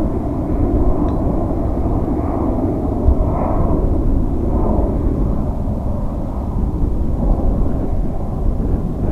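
Engines of a heavy jet airliner at takeoff thrust: a loud, steady, deep rumble.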